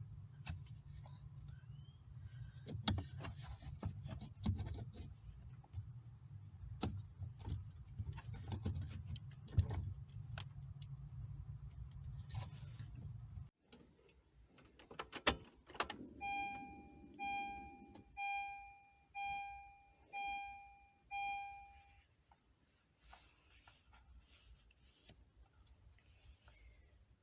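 A low steady rumble with scattered clicks and taps, which stops abruptly about halfway through. It is followed by six evenly spaced electronic chimes, about one a second, each a clear tone that fades out.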